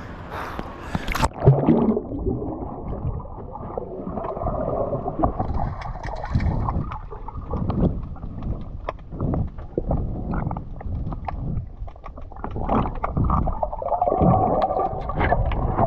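A camera going under seawater about a second in, then muffled underwater sound of a diver swimming among kelp: water rushing and bubbles gurgling in uneven swells.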